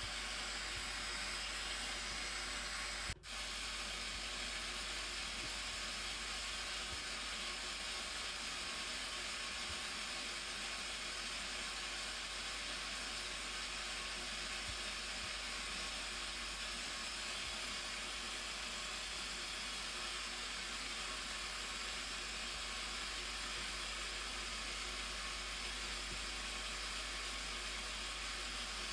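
Steady rushing roar of the Blue Nile Falls, with a brief dropout about three seconds in.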